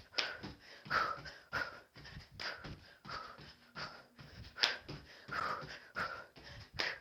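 A person breathing hard from exertion, in sharp rhythmic exhales about one and a half a second.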